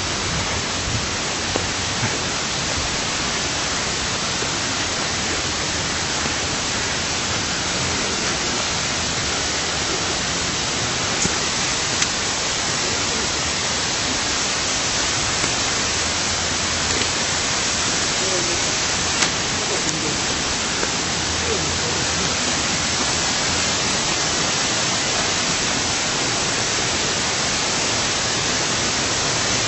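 Steady rush of a waterfall, an even hiss of falling water, with a few faint ticks here and there.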